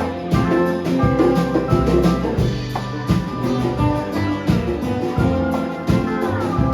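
Band music with a drum kit keeping a steady beat under guitar and other instruments; near the end one note slides down in pitch.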